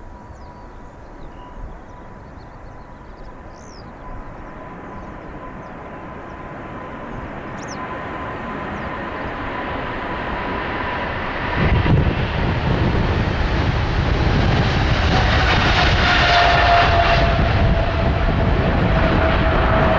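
Boeing 777-300 twin jet departing at takeoff power. Its engine noise builds steadily with a whining tone, then about twelve seconds in a deep rumble swells in as it passes closest, staying loud to the end. Faint bird chirps sound in the first few seconds.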